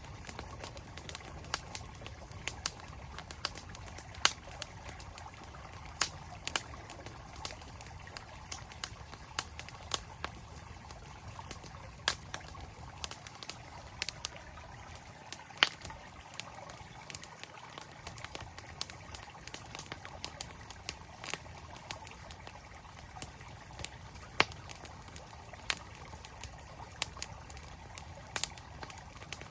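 Wood campfire crackling with irregular sharp pops over the steady rush of a flowing mountain stream.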